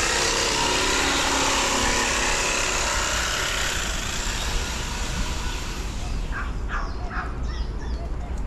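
A vehicle passing by on the street: a steady rushing noise, loudest in the first two or three seconds and then easing, over a constant low rumble. Brief voices of passers-by come in about six to seven seconds in.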